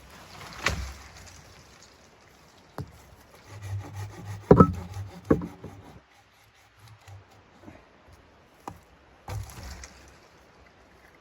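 Wood being handled, likely firewood: scattered wooden knocks and rubbing, with a cluster of louder knocks a little before the middle.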